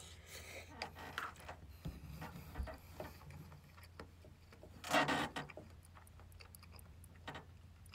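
A person chewing a mouthful of tofu stew and rice, with small clicks of a spoon and chopsticks against a plastic bowl and one brief, louder scrape about five seconds in.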